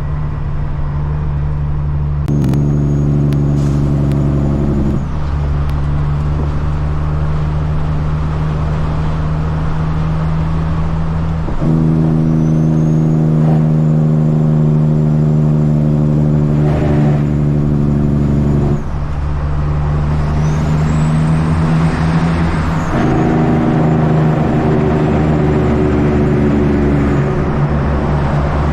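Caterpillar C-15 diesel engine of a Kenworth truck running steadily. Its note thickens and grows louder in three stretches as it pulls, starting about two, twelve and twenty-three seconds in. A faint high whistle rises with it near the middle and again later.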